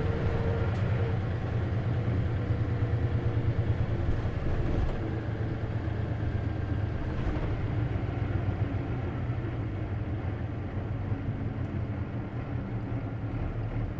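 Diesel engine of an Isuzu KC-LV380N city bus running as the bus drives, heard from inside the cabin as a steady low drone; it eases off a little about five seconds in.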